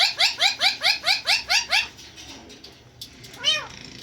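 Pet ringneck parrot giving a fast run of short rising chirps, about five a second, that stops about two seconds in. A single longer call follows near the end.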